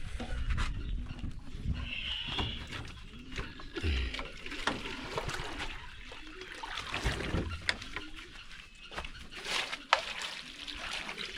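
Water splashing and sloshing as a sack is washed by hand, with irregular small knocks and clatters.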